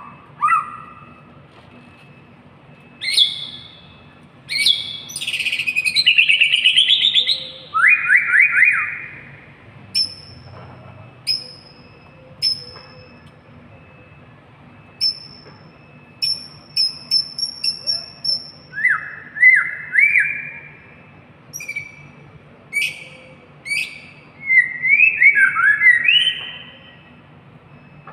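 A murai songbird singing a varied song of loud whistled phrases: rising slurred notes, quick runs of short high notes and fast trills, with short pauses between phrases.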